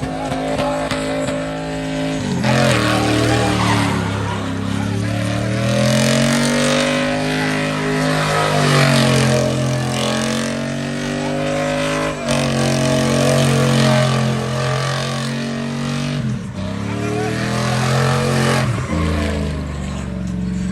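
Pickup truck engine revving hard in a burnout, its pitch climbing and dropping back several times over the noise of spinning tyres.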